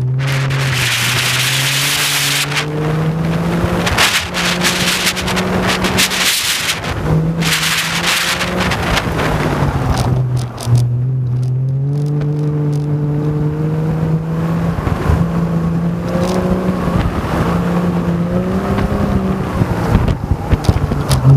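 Triumph sports car's engine revving up and down as it is driven hard through an autocross course, with its pitch dropping and climbing again about ten seconds in. Bursts of hiss sit over the engine in the first seven seconds.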